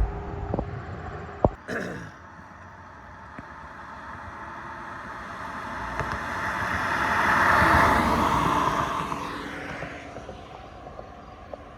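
A vehicle passing on the highway: tyre and engine noise swells to a peak about eight seconds in, then fades away. A few sharp knocks sound near the start.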